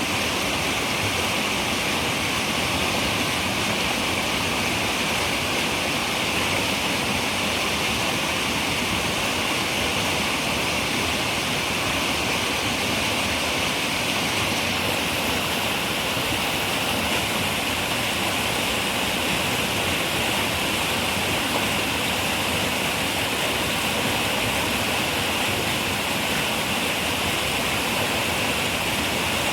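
River water running steadily over rocks, a constant rushing flow.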